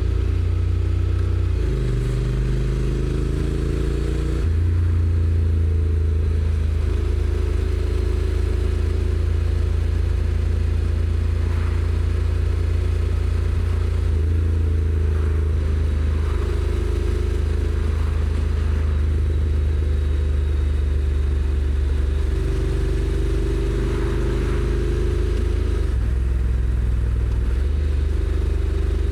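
Honda NC750X's 745 cc parallel-twin engine, stock exhaust, running under way. The pitch climbs slowly as the bike gathers speed, then steps suddenly as the dual-clutch transmission changes gear, about five times.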